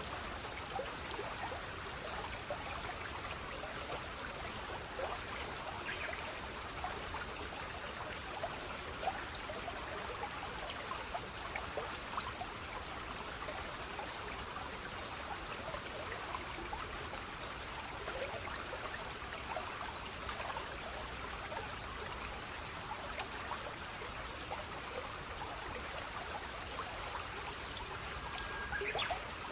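Water of a small stream flowing steadily, trickling and splashing over stones. A brief high rising sound cuts in just before the end.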